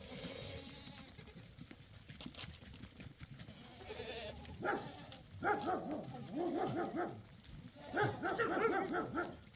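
Goats bleating: a few long wavering calls in the second half, the loudest near the end.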